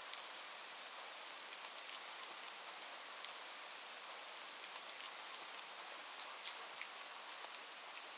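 Steady rain: an even hiss of falling rain with many scattered, sharp drop taps.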